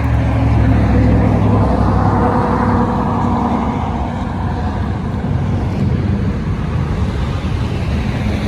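A motor vehicle's engine and road noise, a steady low hum that is strongest in the first few seconds and then eases off, like a vehicle passing or pulling away.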